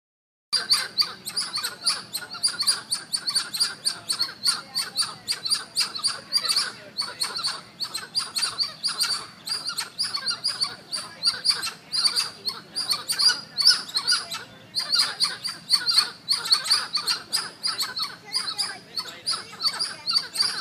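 A group of primates giving rapid, high-pitched chirping calls, several per second and overlapping, without a break.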